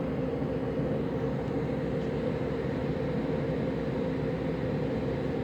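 Air conditioner and heat unit in heat mode, its indoor blower fan running with a steady blowing hum while the electric heat coils are on; the outside fan does not run in this mode.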